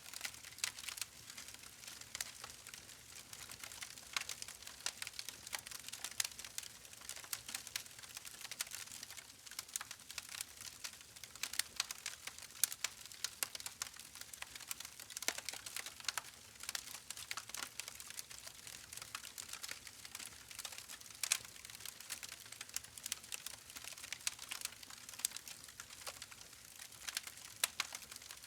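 Campfire crackling: a steady soft hiss with many small sharp pops and snaps at irregular intervals, a few of them louder than the rest.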